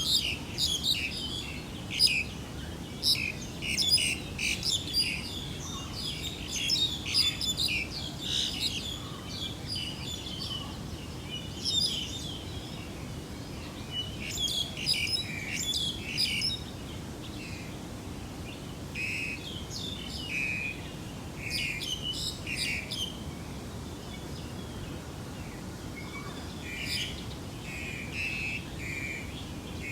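Small birds chirping and twittering: clusters of short, high calls come and go, with quieter gaps between. A steady low rumble runs underneath.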